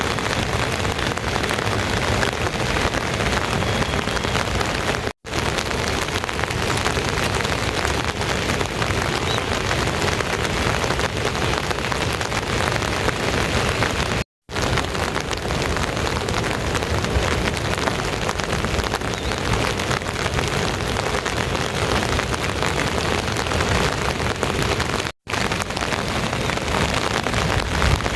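Steady, dense rain falling, cutting out to silence for a moment three times.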